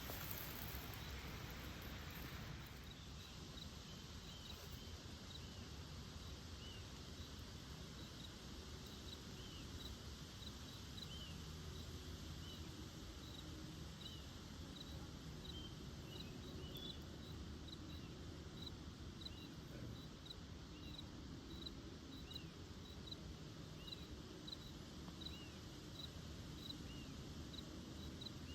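Faint outdoor ambience with a chirping insect: a short high chirp repeating evenly a little under twice a second, and a softer arched chirp every couple of seconds, over a low rumble.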